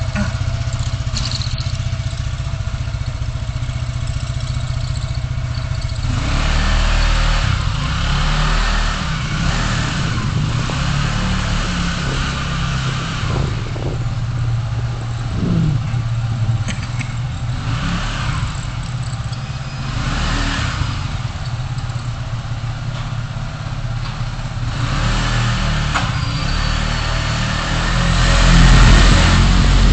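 A car driving in city traffic: steady low engine and road rumble, with other vehicles swelling past several times and the sound growing louder near the end.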